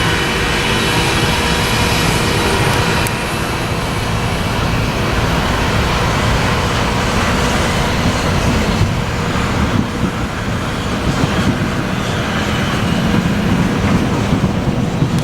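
Freight train rolling past close by: a continuous rumble and rattle of the cars on the rails, with thin steady tones over it for the first three seconds.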